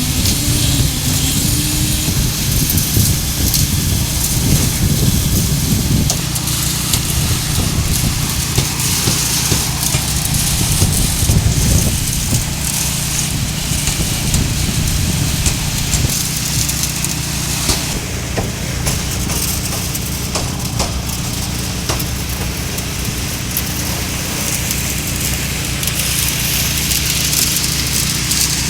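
A concrete truck's diesel engine running steadily under a continuous hiss and rattle.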